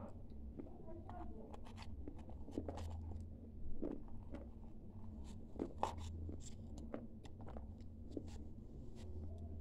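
A person crunching and chewing a mouthful of edible clay close to the microphone: irregular sharp crunches and wet chewing clicks, some louder crunches about four and six seconds in.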